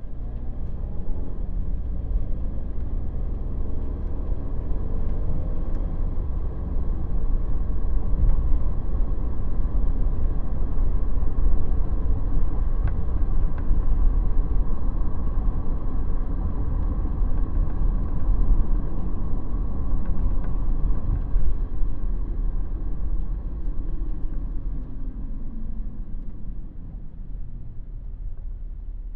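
Cabin noise inside a 2017 Ford Transit Sportsmobile camper van on the move: a steady low engine and road rumble. The engine note climbs as the van accelerates over the first few seconds, and the sound eases off near the end.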